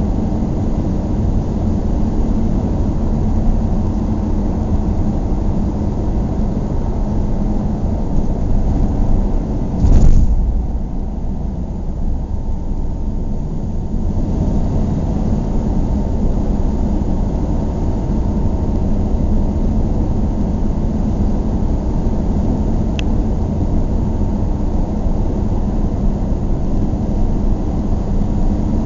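Steady low rumble of a child's small car driving, with one loud knock about ten seconds in and a faint click later.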